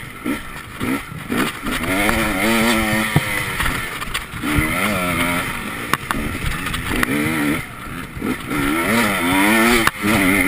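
Enduro motorcycle engine heard from on the bike while it is ridden hard, revving up and dropping back several times as the rider works the throttle and gears, with a few sharp knocks in between.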